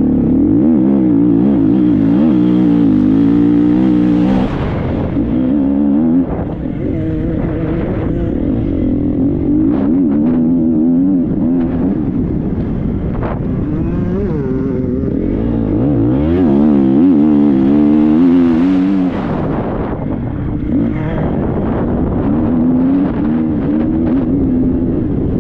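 Triumph 250 motocross bike's single-cylinder engine, heard from the rider, revving hard and easing off over and over. Its pitch climbs and drops through the throttle and gear changes, with short breaks in the note about four, six and nineteen seconds in.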